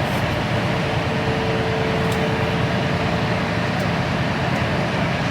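Steady engine and road noise heard inside the cab of an HGV lorry driving at speed, with a faint steady whine that fades out a little past halfway.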